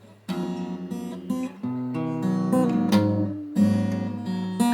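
Guitar strummed, a few chords struck about once a second, each ringing on until the next.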